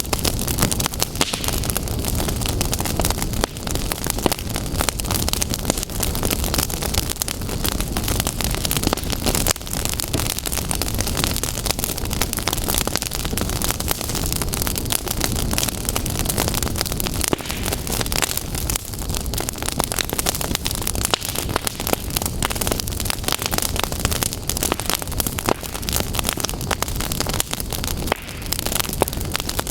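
Fire crackling and popping: a dense, steady stream of small sharp pops over a constant rushing noise with a low rumble.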